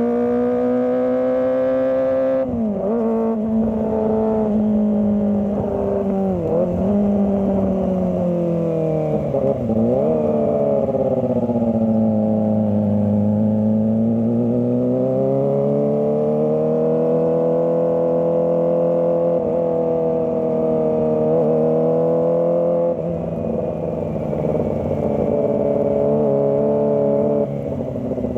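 Kawasaki ZX25R's 250 cc inline-four engine running under way at high revs. Its pitch drops sharply several times in the first ten seconds as the throttle is shut and reopened. It then sinks, climbs smoothly and holds steady.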